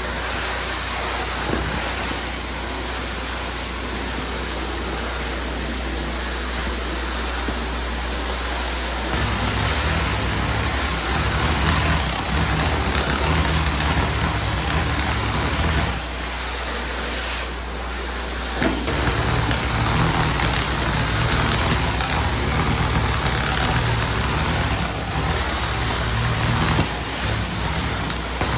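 Tile-and-grout cleaning equipment running: a steady rushing hiss over a constant low hum. A second, deeper hum comes in about nine seconds in, drops out for a couple of seconds around the middle and then returns.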